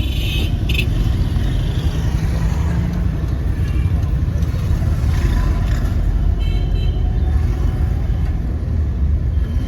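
Steady low rumble of street traffic, with engines of passing vehicles.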